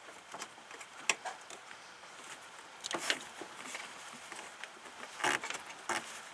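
Scattered light clicks, taps and rustles of hand tools and parts being handled during a radiator hose job, with a short clatter about three seconds in and a longer one about five seconds in.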